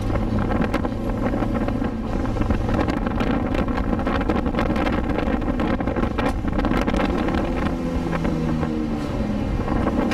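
Car engine and wind noise heard from inside a car driving down a winding road, the engine note shifting in pitch several times near the end as the car slows and speeds up through the bends.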